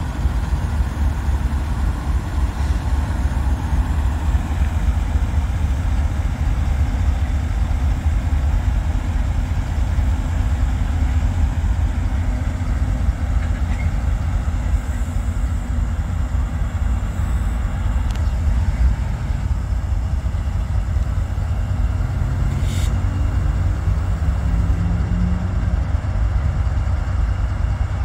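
CSX manifest freight train rolling past, a steady, loud low rumble, with a single sharp click a little over three-quarters of the way through.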